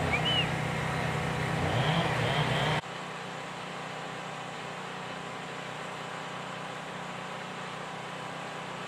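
Steady machine hum that cuts off abruptly about three seconds in, giving way to a quieter, even mechanical drone.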